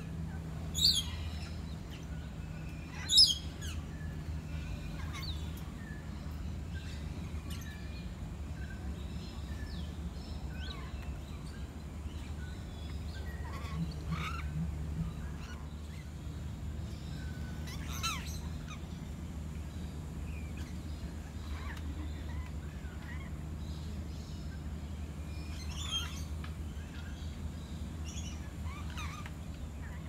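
Birds calling: short, shrill, sharply falling calls every few seconds, the loudest about three seconds in, over a steady low hum.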